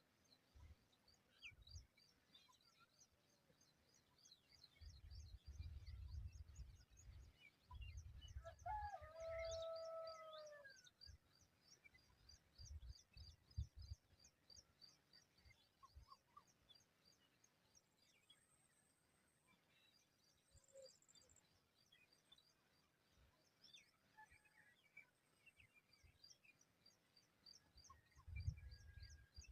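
Faint bird calls: a rapid run of short, high chirps repeating through most of the stretch, and one clearer, longer call with a falling end about nine seconds in. Low rumbling noise comes in several bursts, loudest near the end.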